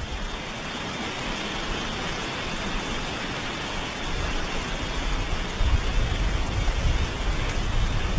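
Steady hiss of noise, with a low rumble building up in the second half.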